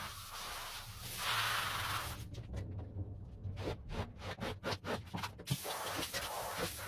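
Dirty wet carpet being worked over: a short hiss about a second in, then a quick run of rubbing, scraping strokes, several a second, stopping about two-thirds of the way through.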